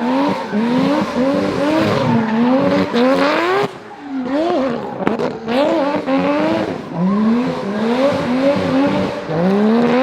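Rally car engine revving hard in quick repeated bursts, its pitch rising sharply and dropping again about twice a second as the driver works the throttle, with a short lull near the middle.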